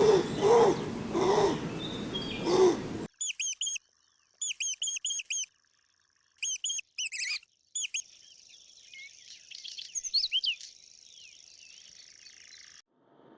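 A cat meowing four times. After an abrupt cut, a small bird chirps in quick clusters of short high notes with pauses between them, followed by fainter twittering over a steady hiss that cuts off near the end.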